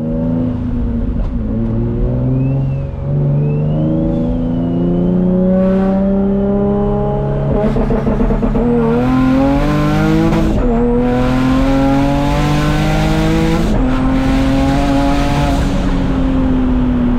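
Single-turbo Infiniti G35's V6 engine accelerating through the gears: its note climbs and drops back at each shift, four shifts in all, then holds steady as the car cruises.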